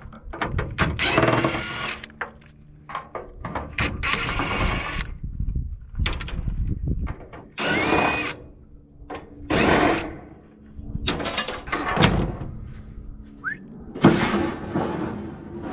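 Cordless power drill/driver running in short bursts of about a second each, with metallic clicks and knocks in between, as screws are backed out of an air-conditioning unit being scrapped.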